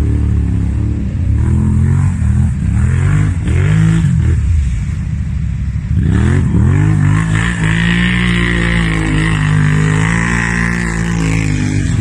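An off-road vehicle's engine revving: several quick rises and falls, then a climb to high revs held steadily for a few seconds before it drops back near the end.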